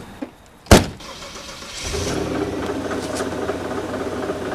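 A loud single thump, then about two seconds in a 2000 Saturn's engine starts and runs steadily. The owner says the engine has extreme trouble.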